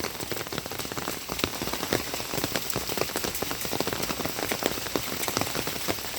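Heavy hurricane rain falling steadily, with a dense pattering of drops striking close by.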